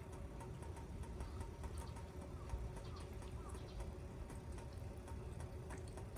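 Aluminium mess tin's lid rattling faintly in quick small ticks over a campfire as the rice water comes to the boil, a sign the rice is cooking properly, over a steady low rumble.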